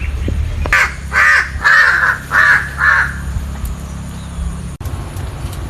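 A bird giving about five harsh calls in quick succession over a steady low background hum.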